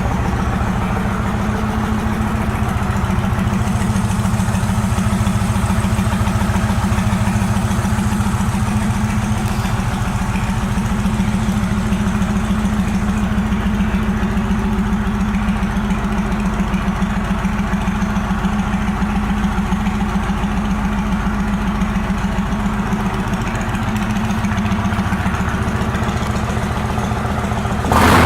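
2008 Yamaha XV17PC Warrior's 1700 cc V-twin idling steadily through its Vance & Hines turndown exhaust, with an even, pulsing note.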